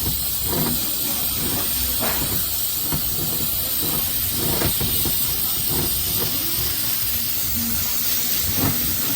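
Aerosol brake cleaner spraying in a long, steady hiss, with a few light knocks.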